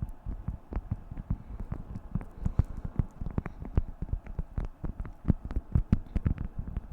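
Beeswax food wrap being crinkled and handled, giving a dense, irregular run of crackles and taps.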